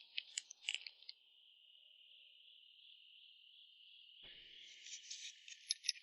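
Insects chirping in a steady, faint high chorus, with sharp chirps in the first second. About four seconds in, the chorus swells into a denser burst of rapid chirps.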